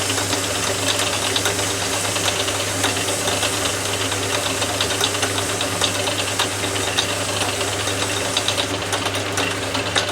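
Atlas 10 metal lathe running under power with a steady hum, while a brass spigot is cleaned up in it. Fast, irregular ticking and scraping run over the hum.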